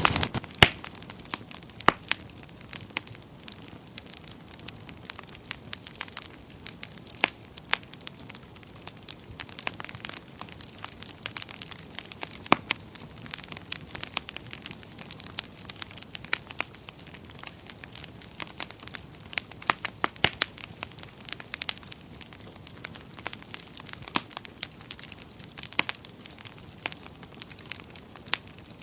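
Wood fire crackling in a fireplace: frequent irregular sharp pops and snaps over a faint steady hiss.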